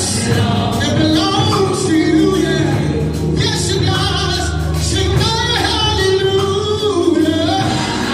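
Gospel music: singing over steady instrumental accompaniment.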